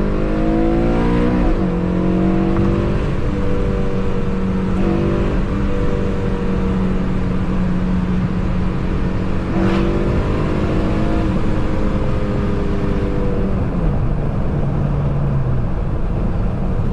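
Car engine accelerating under load: the revs climb, then drop sharply as it shifts up about a second and a half in, and hold steady. There is a single sharp knock about ten seconds in, and the revs fall again near the end.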